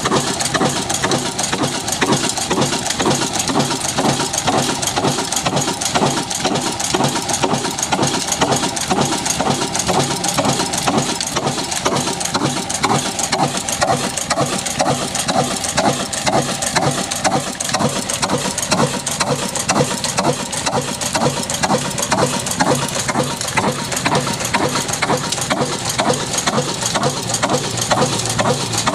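Old stationary engine driving a chakki flour mill, running steadily with a rapid, even beat.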